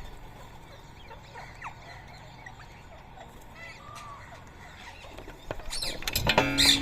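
Rose-ringed parakeets calling: faint scattered squawks and chirps, then about five and a half seconds in, loud harsh screeching calls start and build up near the end.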